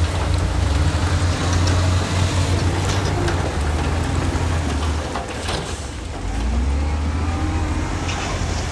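Heavy diesel engine of earthmoving machinery running under load; it eases off briefly past the middle and picks up again. Scattered clanks sound over it.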